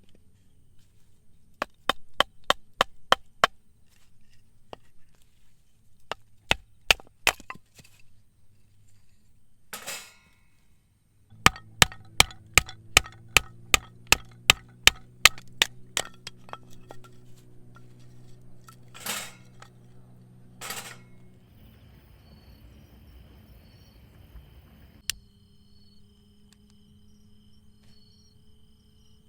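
Firewood being split by batoning, a wooden baton knocking a blade down through a log: sharp wooden knocks in quick runs of about three a second. There are three bouts, the longest about a dozen strikes.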